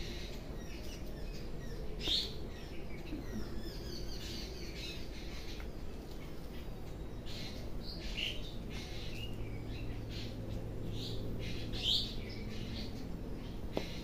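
Birds chirping now and then, short high calls a few seconds apart, over a steady low background hum. A couple of faint clicks, about two seconds in and near the end, come from strands of hair being tugged to make them crack.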